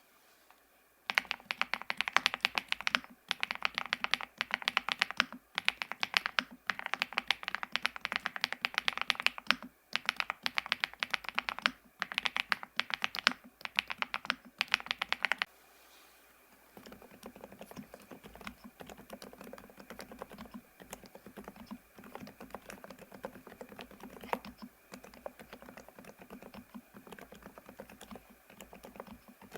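Typing on an ABKO A108K full-size mechanical keyboard: a fast, loud clatter of keystrokes for about fifteen seconds, then after a brief pause a much quieter run of typing. The loud half fits the Mammoth linear switches and the quiet half the silent Cherry Blossom linear switches.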